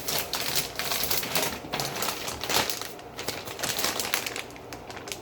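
Food containers and packaging being handled and set down while a refrigerator is emptied: a steady run of irregular clicks, knocks and rustles of plastic and wrapping, dying away near the end.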